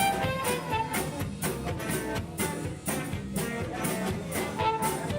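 Live band playing an instrumental passage between sung verses, with a melody line over a steady drum beat.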